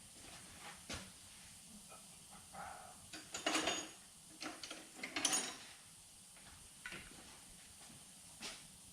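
Work-bench handling noises: scattered light clicks and knocks, with two short scraping rasps about 3.5 and 5 seconds in, from alternator parts and hand tools being handled.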